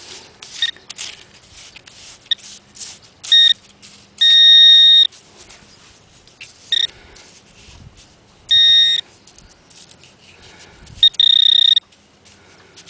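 Garrett Pro-Pointer pinpointer giving its high buzzing alert in seven bursts, short ones and one lasting about a second near the middle, as it is worked through the sand and picks up a metal target. Light scraping of sand comes between the alerts.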